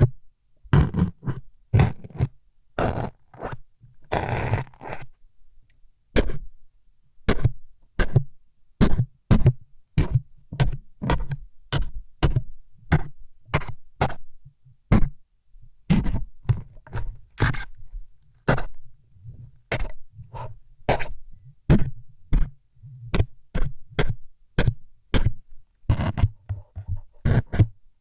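ASMR stabbing sounds meant as needles jabbing into the ear: short sharp pokes in quick succession, about two a second, with a few longer scraping strokes in the first five seconds.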